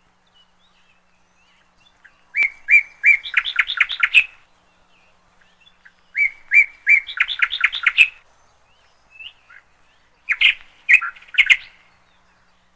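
A songbird singing three phrases a few seconds apart. Each phrase is a few clear notes followed by a quick trill.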